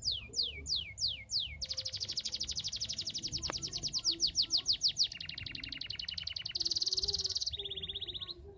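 Canary singing a fast, varied song: a few down-slurred whistles, then a run of rapid trills that shift in pitch and speed every second or two.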